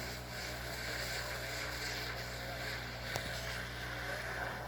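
An engine running at a steady speed, with a hiss over it and one sharp click about three seconds in.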